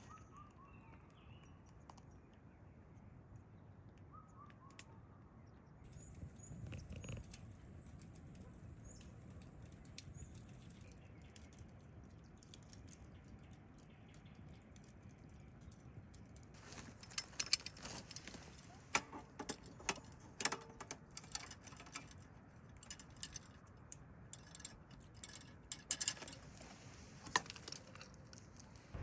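Quiet outdoor background with a few short bird chirps in the first seconds, then scattered light clicks and taps, like small gear being handled, from a little past the middle.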